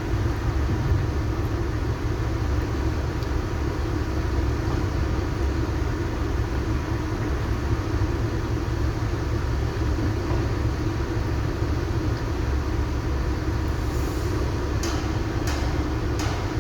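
Heavy vehicle engine running steadily with a low rumble. A few sharp clicks come near the end.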